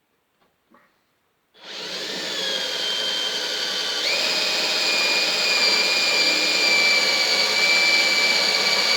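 Electric drill with a blunt 4mm bit running steadily while drilling a pilot hole, starting about one and a half seconds in, after a few faint clicks. Its whine shifts in pitch about four seconds in. The bit is blunt and cutting poorly.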